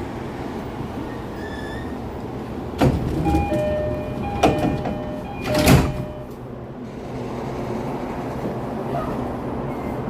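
Commuter train's sliding doors closing: short chime tones and three sharp clunks about three, four and a half and six seconds in, the last the loudest, over the steady hum of the train.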